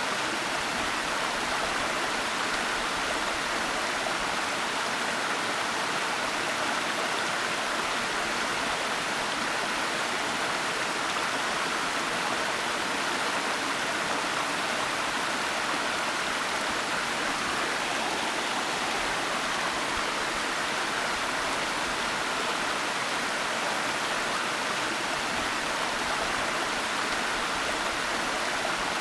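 Steady waterfall rush of falling and flowing water, an even hiss with no change or separate events.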